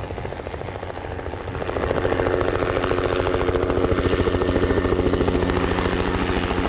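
Helicopter running with a rapid, even blade chop, growing louder about two seconds in.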